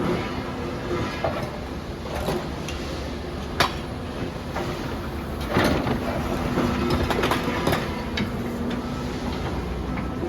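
Demolition excavator's engine running steadily, with the crunch and clatter of building debris being broken and dropped: a sharp crack about three and a half seconds in, then a longer crunching rattle and smaller knocks.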